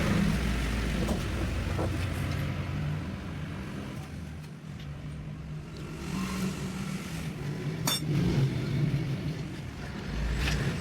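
An engine running, its speed rising and falling, with a sharp clink about eight seconds in.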